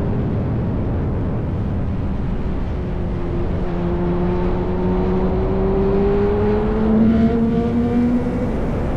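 Yamaha R1's inline-four through an SC-Project aftermarket exhaust, pulling steadily under a dense rush of noise. Its note climbs smoothly in pitch through the middle as the bike accelerates in gear, then changes just before the end.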